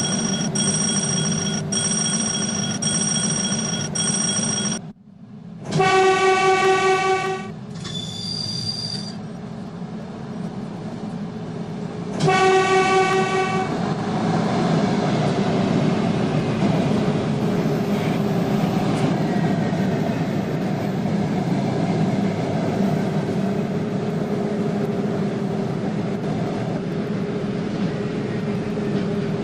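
Trains at a railway station: a steady high tone until a cut about five seconds in, then two loud, evenly pitched train horn blasts of a second or so, about six and twelve seconds in, with a short high whistle between them. After that, a train runs past steadily.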